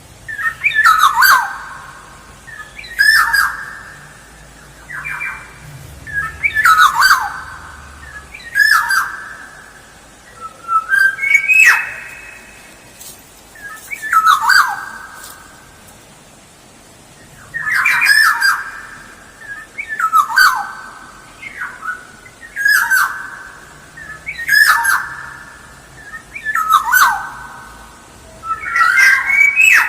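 An oriole (kepodang) repeating a harsh, nasal call about every two seconds. Each call starts with a quick downward-sliding note and trails off into a rasp.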